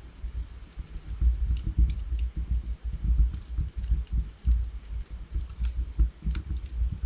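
Wood fire burning in a fireplace: a low, uneven rumble of flames with sparse sharp crackles and pops from the burning logs.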